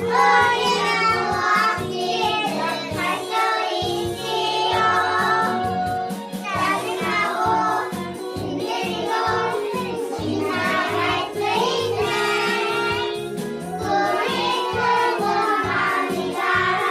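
Children's song with children singing to an upbeat instrumental backing with a steady beat.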